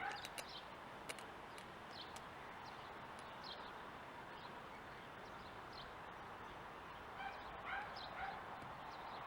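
Faint small clicks of carburettor parts being handled during float bowl fitting, over a steady faint hiss, with short bird calls in the background around seven to eight seconds in.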